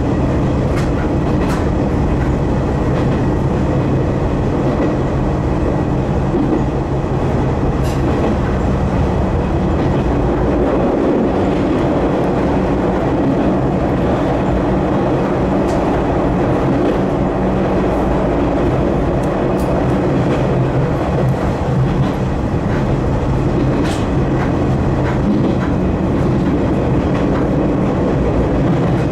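Izuhakone Railway Daiyuzan Line electric commuter train running along the track, heard from on board. Its motors and running gear hum steadily, with scattered clicks of the wheels over rail joints.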